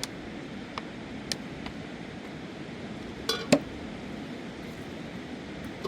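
Steady rush of river water, with a few light clicks and one louder double clink about three and a half seconds in.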